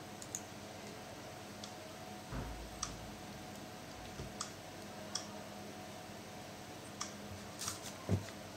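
Small scattered clicks and taps of tools and plastic parts while a laptop is taken apart, about eight in all, with a couple of soft thumps, the loudest near the end. A faint steady hum runs underneath.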